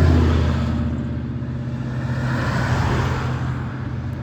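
Classic vehicle's engine running as it drives past, loudest at the start and then fading away, followed by softer road noise from passing traffic.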